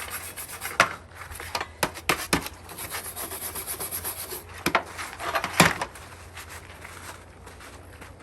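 Scrubbing surface rust off a vinegar-soaked part of an antique wood stove: irregular rubbing and scraping strokes with a few sharp clicks, dying down after about six seconds.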